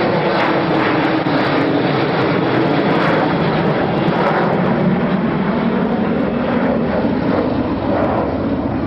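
Aircraft engine noise: a loud, steady rushing that eases slightly near the end.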